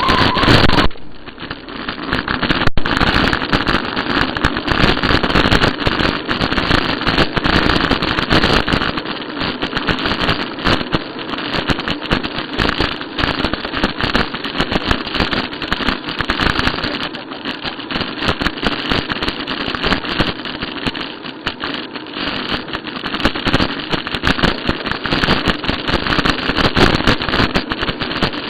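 Bicycle ride noise: rough, crackling rumble of the tyres and bike rattling, picked up by a camera riding on the bicycle.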